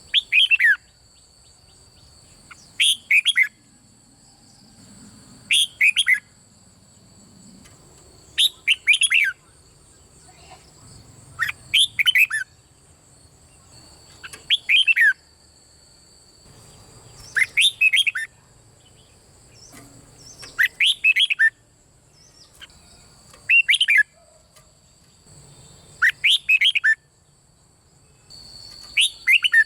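Red-whiskered bulbul singing: short song phrases repeated about every three seconds, each a quick run of falling whistled notes. A steady high-pitched whine runs underneath.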